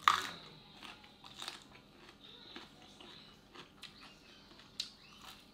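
A person biting into a crisp green vegetable with a loud crunch at the start, then chewing with scattered smaller crunches.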